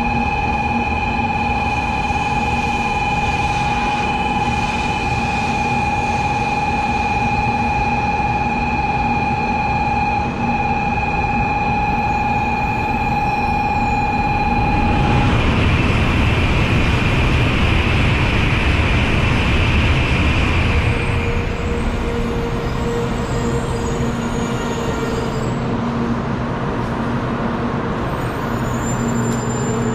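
700 series Hikari Rail Star Shinkansen train moving along the station platform. A steady high tone sounds through the first half, then a louder rush of train noise swells about halfway and fades after several seconds, leaving a steady low hum.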